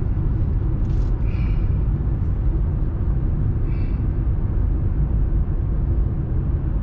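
Steady low rumble of a car driving, engine and road noise heard from inside the cabin, with a couple of faint short chirps about a second in and again near four seconds.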